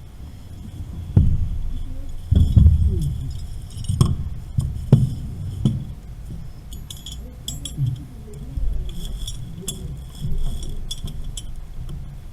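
Metal tools working on pipe fittings. There are about half a dozen heavy knocks in the first six seconds, then light metallic clinking and jangling that goes on in quick runs.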